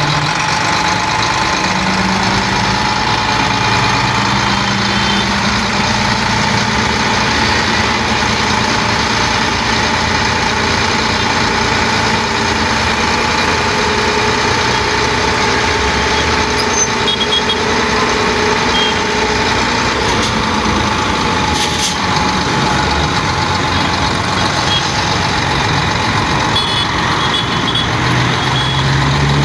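Sinotruk HOWO dump truck's diesel engine running steadily, with a steady high-pitched tone held over the engine noise.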